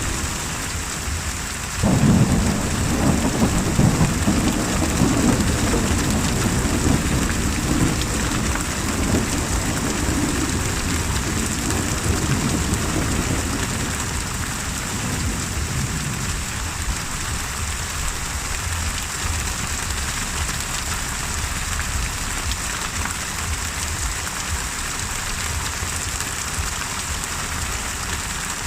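Steady rain with a sudden crack of thunder about two seconds in that rolls on as a low rumble for around twelve seconds, then fades back to rain alone.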